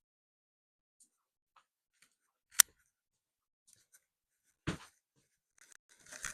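Scattered handling sounds: one sharp click, a duller knock about two seconds later, and a few light rattles near the end.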